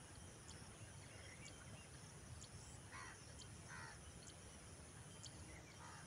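Near silence, with three faint, short bird calls, two around the middle and one near the end.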